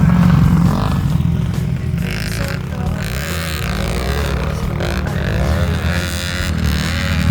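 Dirt bike engine running and revving.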